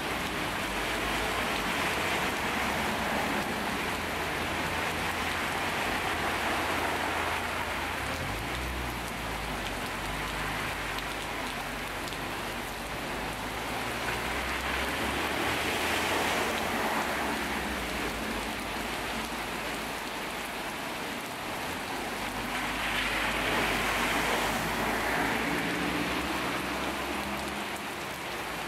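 Heavy thunderstorm downpour pelting a flooded street and lawn: a loud, steady hiss of rain that swells and eases a few times.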